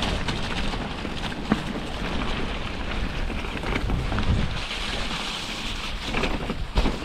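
Wind buffeting the camera microphone and heavy rain as a mountain bike rolls down a wet trail, with one sharp knock about a second and a half in.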